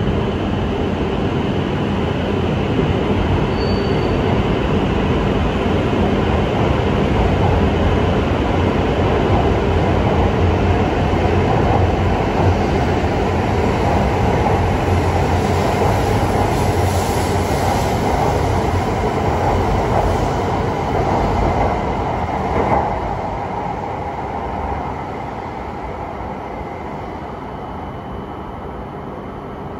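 E5 series Shinkansen train pulling out of the station, its steady running noise building as the cars pick up speed past the platform. The noise falls away over a few seconds near the end as the last car clears.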